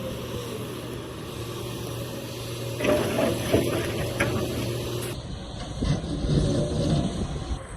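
Excavator engine running steadily, with a run of knocks and rattles from about three seconds in, typical of the bucket working rock.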